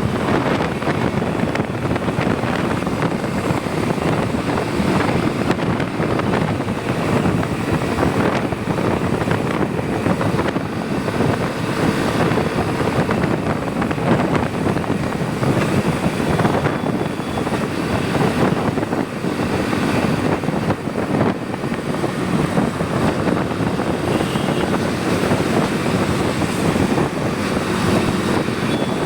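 Motorcycle riding at a steady speed: an even rush of engine and road noise with wind on the microphone, unchanging throughout.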